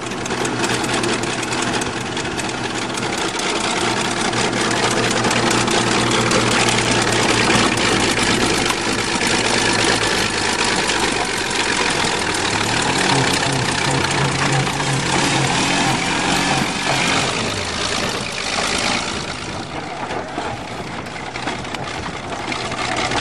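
Bulldozer engine running as the machine drives over two cars, crushing them, with a loud grinding, scraping noise over the engine drone. One car's 3.8 V6 engine is still running with its throttle wedged open. About twelve seconds in an engine note rises in pitch and drops back a few seconds later.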